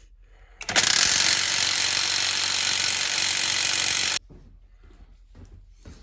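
Impact wrench hammering on a large nut through a chrome socket for about three and a half seconds, then stopping abruptly; the stuck nut does not break loose. A few faint knocks follow.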